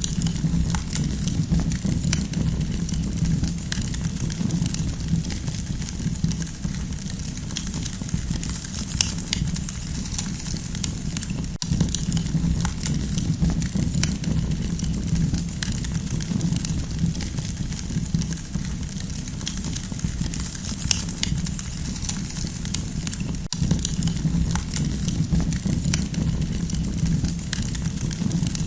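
Campfire crackling: a steady low background of burning, with many small sharp pops and snaps scattered throughout.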